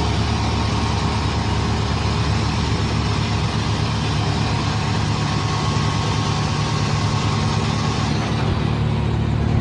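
Heavy vehicle's diesel engine running at a steady low note, with a hiss over it that fades out near the end.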